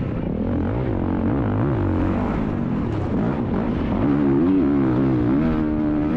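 Dirt bike engines revving, the pitch rising and falling repeatedly, then held at higher revs and louder from about four seconds in.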